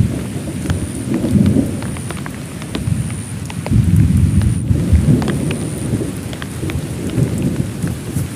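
Heavy rain falling in a thunderstorm, with a low rumble of thunder that swells and fades twice and scattered sharp ticks of individual drops.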